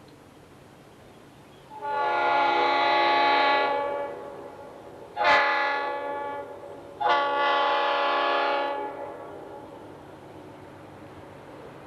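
Diesel freight locomotive air horn sounding three blasts: long, short, then long.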